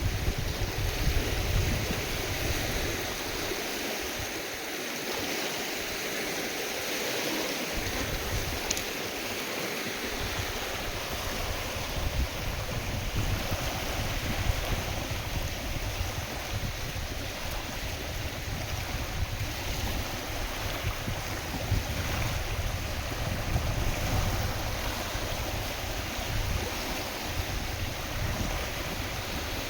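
Wind-driven waves on a lake, a steady wash of lapping and splashing water, with gusts of wind buffeting the microphone in a low rumble that drops away for several seconds a few seconds in.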